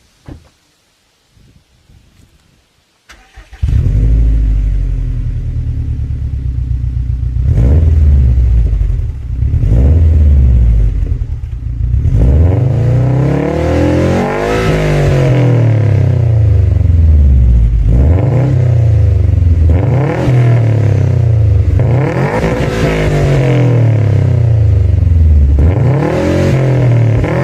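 Four-cylinder car engine coming in suddenly about three and a half seconds in, then revving up and down repeatedly, its pitch climbing and dropping several times.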